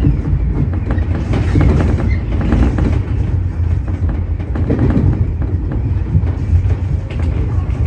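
Tobu 30000-series electric commuter train running at speed: a steady low rumble with wheels clacking over rail joints, heard from the front of the train.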